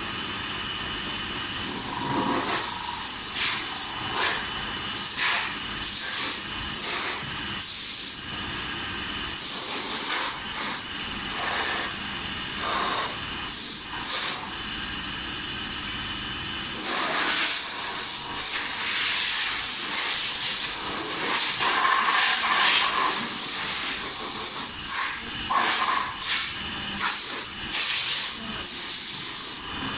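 Hissing blasts of air or spray, switched on and off repeatedly: a short run of them, then one long hiss of several seconds, then more short blasts. A steady machine hum runs underneath.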